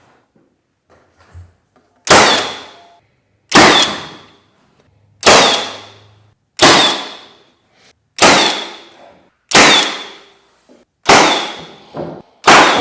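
Nail gun firing eight shots at a steady pace, about one every second and a half, each a sharp crack that dies away over about a second with a slight ring, as it fastens the bookcase's wooden parts together.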